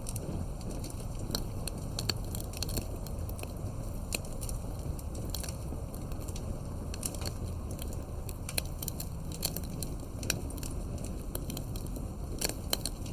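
Wood campfire burning with a steady low rush, and frequent irregular sharp crackles and pops from the burning wood.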